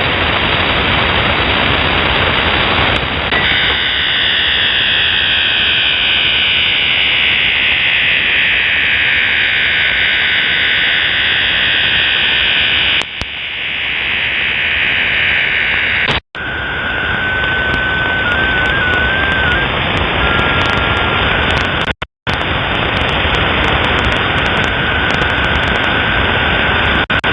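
Shortwave radio static and hiss from a receiver being tuned across the bands. For several seconds a brighter hiss carries slowly falling sweeps. The sound cuts out briefly twice as the frequency changes, and a thin whistle-like tone then steps slightly up and down in pitch before breaking into two short beeps.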